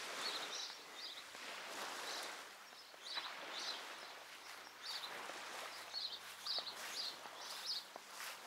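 Small birds chirping in short, high notes that repeat every half second or so over a steady outdoor hiss.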